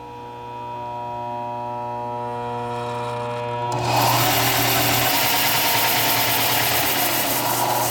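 An electric power tool's motor running through a triac speed controller: first a steady buzzing hum that slowly grows louder, then about four seconds in it jumps to a much louder, full whirring run as the speed is turned up.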